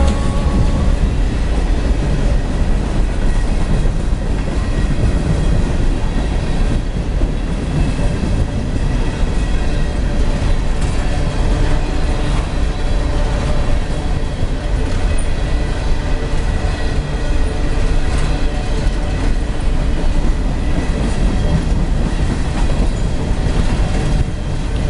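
Loaded CSX coal train's freight cars rolling past on the rails: a steady, loud rumble of steel wheels with many faint knocks from the wheels.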